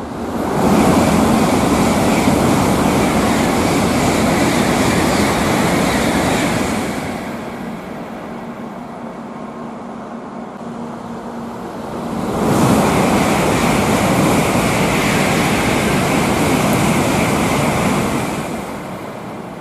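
Two Tokaido Shinkansen trains passing through the station at high speed, one after the other. Each is a loud rushing noise that comes up suddenly, holds for about six seconds and then fades, and the second begins about twelve seconds in.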